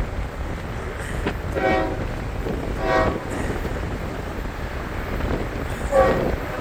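Florida East Coast freight locomotive's air horn sounding three short blasts, about a second in, around three seconds in and near the end, to warn track work crews, over the low rumble of the approaching train and wind on the microphone.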